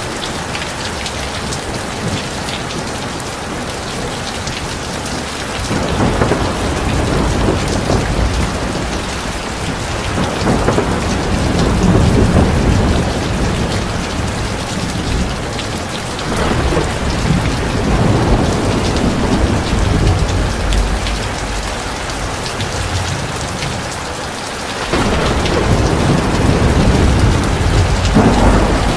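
Heavy rain falling steadily, with long rolling rumbles of thunder that swell and fade about four times.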